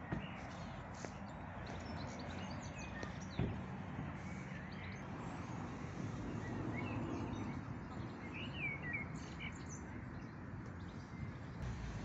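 Small birds chirping and singing in short, scattered calls, with a brief cluster of chirps about eight to nine seconds in, over a steady low outdoor rumble.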